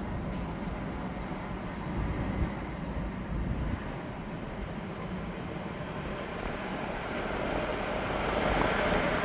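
Jet engines of a large Antonov cargo aircraft on landing: a steady rumble that grows louder near the end.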